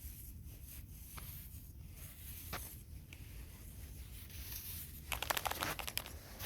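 Soft rustling and crunching, with a louder burst of rapid crackling about five seconds in.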